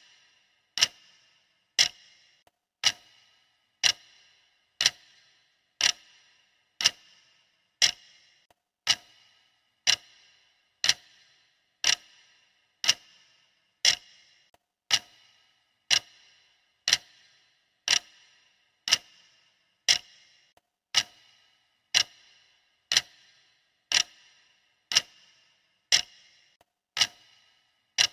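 Clock ticking steadily, one sharp tick every second, each tick with a short ringing tail.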